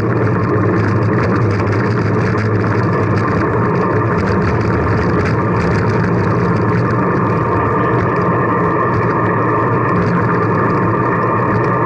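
Steady rushing wind and road noise on a moving bicycle, unbroken and even in level.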